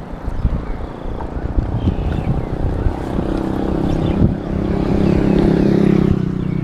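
A small engine draws closer and passes, loudest about five to six seconds in and fading near the end, over wind buffeting the microphone.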